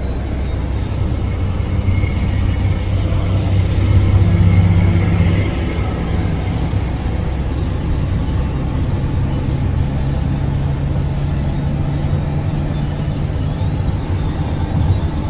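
A moving car's engine and road noise: a steady low rumble with a humming engine tone, rising a little about four to five seconds in.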